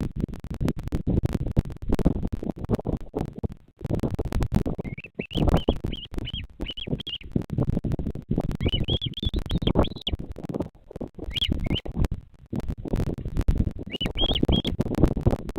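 Series of short, high chirping calls from a bird, four or five notes at a time, repeated several times. A constant low crackling rumble runs underneath.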